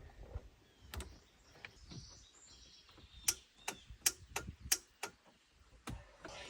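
Boat engine's starter solenoid clicking sharply and irregularly, eight or so times, without the engine cranking, which the owner puts down to a poor battery connection.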